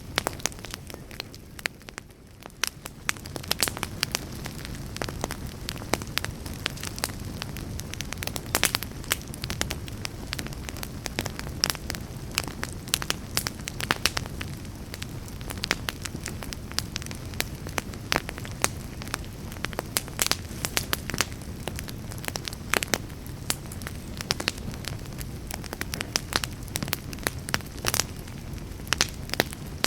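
Campfire burning, with frequent irregular crackles and pops of burning wood over a steady low rumble of flames. It dips quieter about two seconds in, then builds back.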